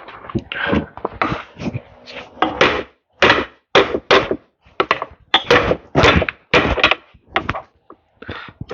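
Repeated knocks and thunks of tools working on a seized set screw, about two a second and fairly even.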